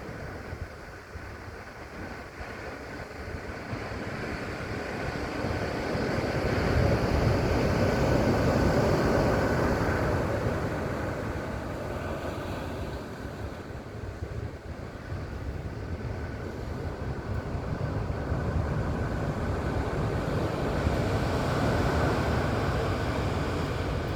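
Pacific surf breaking and washing up the beach, swelling louder twice, with a gusty rumble of wind on the microphone.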